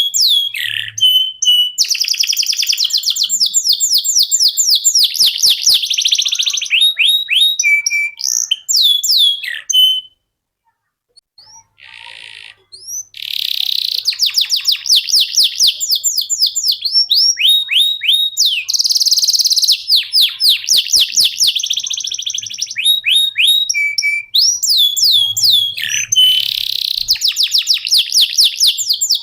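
Canary singing a long, rapid song of fast trills and rising and falling whistled notes. It breaks off for a couple of seconds about ten seconds in, then carries on.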